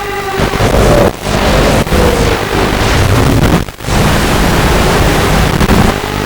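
Walkera F210 racing quadcopter's motors running under heavy wind rush on the microphone, their whine dipping in pitch early on. The sound drops out briefly twice, about a second in and again past the middle.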